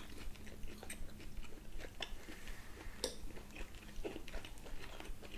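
Close-miked chewing of grilled beef steak, with a few short, sharp clicks scattered through.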